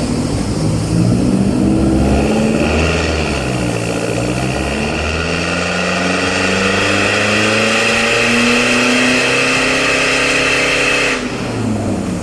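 Mitsubishi Strada pickup engine and exhaust in a full-throttle dyno pull. The pitch dips about four seconds in, then climbs steadily, and drops off sharply near the end as the throttle is lifted.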